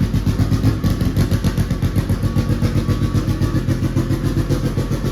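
Turbocharged Honda CRX engine running at idle on E85 fuel while its tune is being adjusted, with a steady, uneven pulsing beat of several throbs a second.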